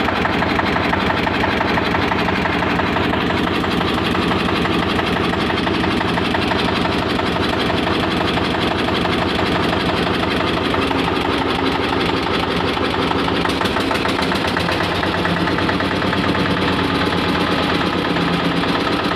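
22 HP Eicher single-cylinder diesel stationary engine running steadily, driving a mill, with an even, unchanging beat.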